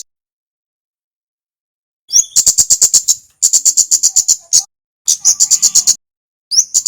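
Kemade, a flowerpecker, calling: four bursts of rapid, sharp, high-pitched ticks at about eight or nine a second. Each burst opens with a short rising note and lasts about a second. The first burst begins about two seconds in, after a silent gap.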